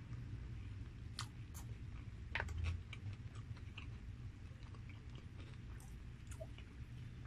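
Close-miked chewing and biting of crispy fried chicken: scattered wet crackles and crunches, the loudest about two and a half seconds in, over a steady low hum.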